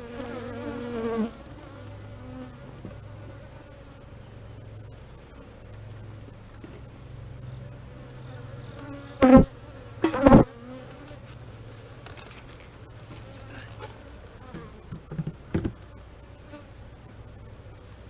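Honey bees buzzing steadily around an open hive, with two loud knocks about nine and ten seconds in and a few lighter knocks near the end as the hive parts and cover are handled.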